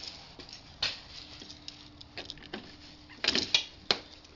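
A few scattered clicks and rustles of handling, with a quick cluster of clicks about three seconds in; no engine running.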